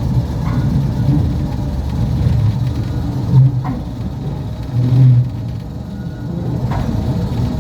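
Battery-electric Mail Rail train running on its narrow-gauge track: a steady low rumble of wheels and motor, with two brief louder swells about three and a half and five seconds in.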